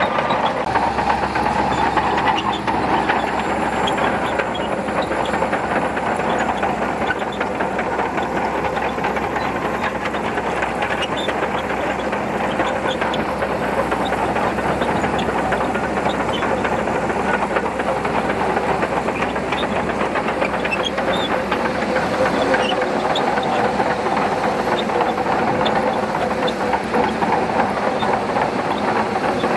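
Shantui bulldozer working: a steady engine note with dense, continuous clanking and clicking from its steel tracks.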